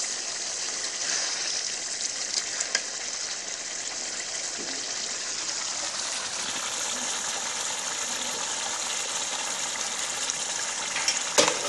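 Mutton curry sizzling and bubbling in a black iron kadai: a steady hiss, with a couple of short knocks, the loudest near the end.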